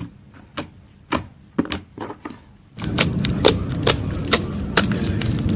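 Slime being squished and poked, giving sharp clicks and pops. There are a few spaced pops at first, then just before the middle it turns louder, with faster clicking over a steady hiss.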